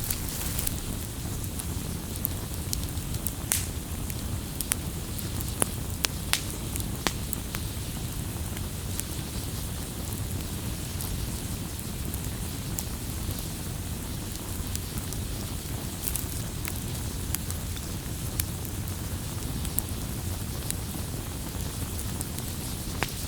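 Wood fire burning: irregular sharp crackles and pops over a steady low roar, with a few louder pops in the first seven seconds.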